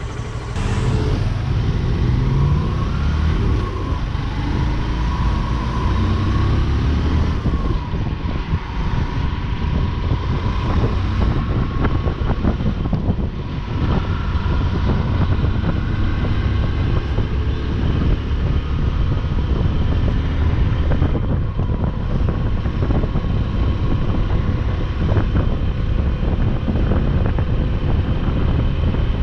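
Motorcycle riding on the open road: the engine runs under a continuous rumble of wind buffeting the microphone. The engine pitch rises and falls in the first several seconds.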